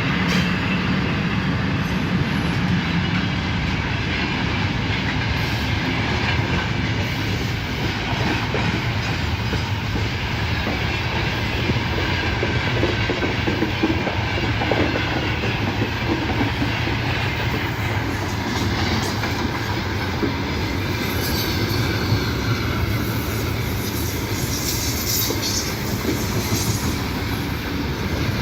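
A freight train's wagons rolling past at speed, their steel wheels running over the rails in a steady clatter, with some high-pitched wheel squeal in the second half.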